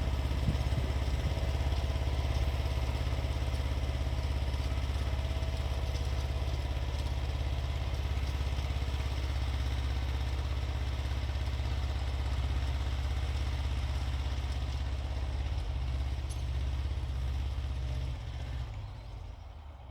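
Xingtai 220 compact tractor's diesel engine running steadily while it works a rotary tiller, dying away over the last two seconds.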